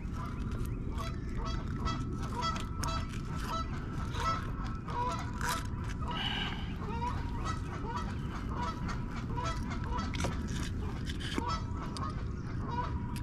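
Birds calling over and over in short notes at a steady pitch, over a steady low rumble, with scattered sharp clicks.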